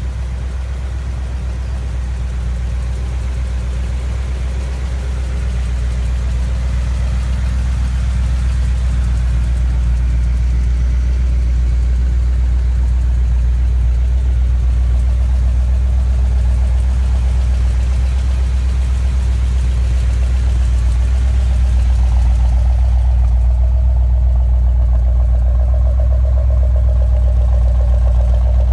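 1972 Chevrolet Corvette's V8 engine idling steadily, with a deep, even exhaust note and a higher-pitched component that joins in near the end.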